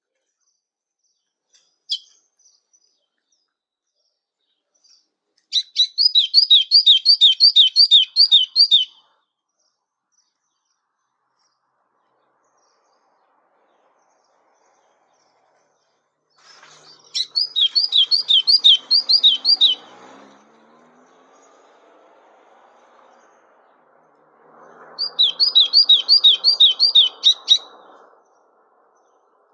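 A songbird sings three trilled phrases, each about three seconds long, made of quickly repeated slurred whistled notes, after a single short chirp near the start. A faint low background hum runs under the last two phrases.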